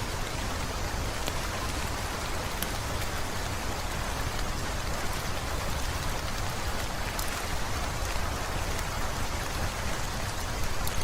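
Heavy rain falling as an even, steady hiss, with a few faint sharp clicks scattered through it.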